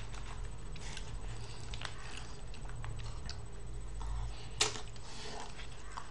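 Chewing and mouth sounds of a person eating smoked mackerel by hand: small wet clicks and lip smacks, with one sharper click about four and a half seconds in, over a low steady hum.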